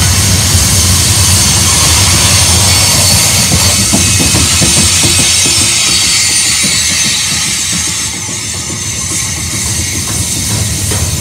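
Freight train's covered hopper cars rolling past close by: a steady rumble of steel wheels on rail with scattered clicks, and high-pitched squealing from wheels working around the curve. The sound eases slightly about two-thirds of the way through.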